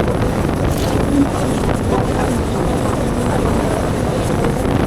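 Suzuki Carry Pro mini truck driving laden: a steady low engine and road rumble with a faint steady hum.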